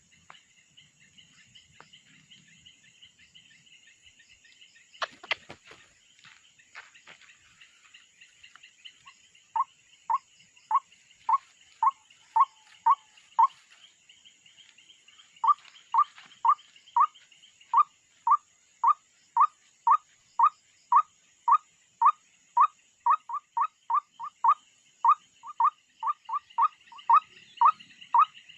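White-breasted waterhen calling: a long run of short rising notes, about two a second. It starts about ten seconds in, breaks off briefly, then resumes and gets faster towards the end.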